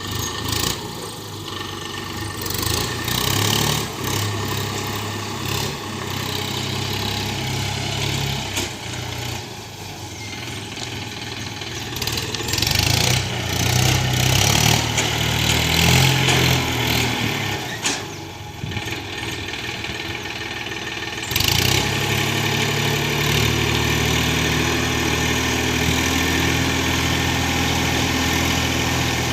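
Swaraj 963 FE tractor's three-cylinder diesel engine running under varying load, its speed rising and falling. About 21 seconds in it steps up to a louder, steady, higher running speed.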